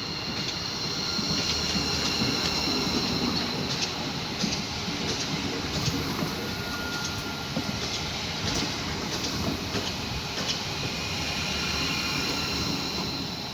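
A train passing along the tracks, with a high wheel squeal on the rails and scattered clicks.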